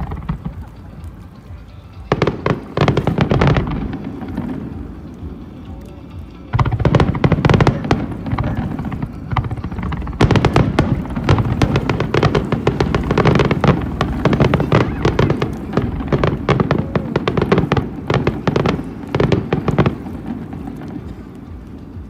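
Fireworks bursting overhead in rapid volleys: a short burst of shells about two seconds in, then a dense, continuous barrage from about six seconds in that thins out near the end.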